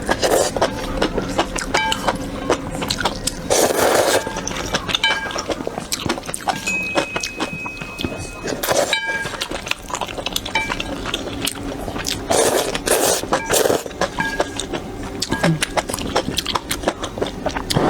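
Close-miked eating sounds: slurping noodles and wet chewing. Many small clicks are broken by louder slurps a few times over.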